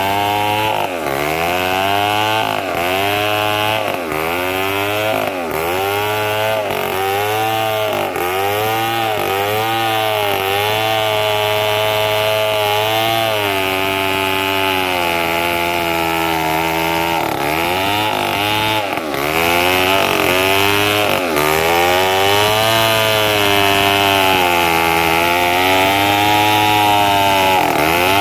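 Two-stroke chainsaw cutting mahogany, its engine note dipping under load and picking back up again and again as the chain bites into the wood.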